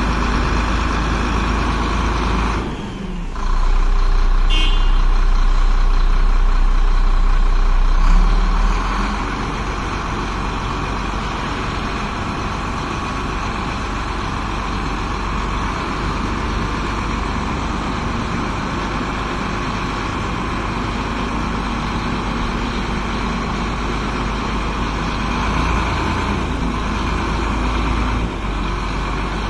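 Shacman tipper truck's diesel engine running steadily. It dips briefly about three seconds in, runs louder for about five seconds, then settles to an even level.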